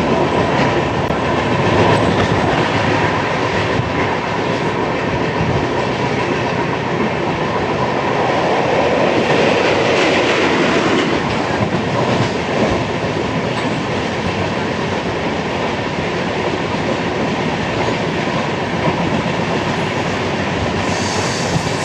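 Express passenger train running along the rails: a loud, steady rumble of wheels and carriages with a faint steady whine.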